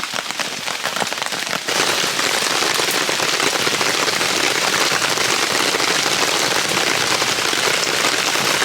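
Steady rain pattering on a DD tarp overhead. The hiss gets suddenly louder about two seconds in, then holds steady.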